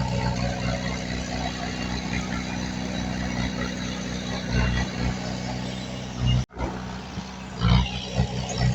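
Heavy diesel engine of earthmoving machinery running steadily, with a few brief louder surges; the sound cuts out for an instant about six and a half seconds in.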